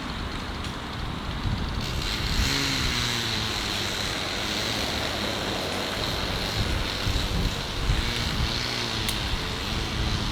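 Tractor engine running steadily, a continuous mechanical rumble that grows a little fuller about two seconds in.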